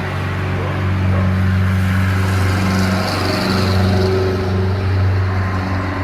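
A motor or engine running with a steady low hum, briefly wavering a little after three seconds in.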